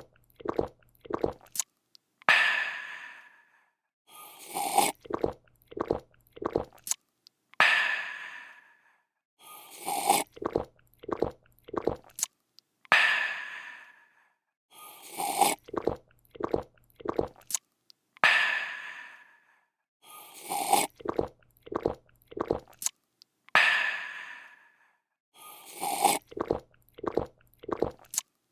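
A person drinking, repeated as a loop about every five seconds: a slurp, about four quick gulps, then a long breathy 'aah' of refreshment.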